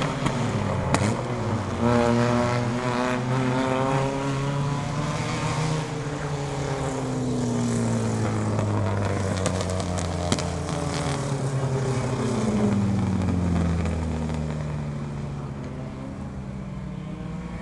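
Several race car engines running on a short oval track. Their pitch rises and falls, overlapping, as the cars accelerate, lift and pass by.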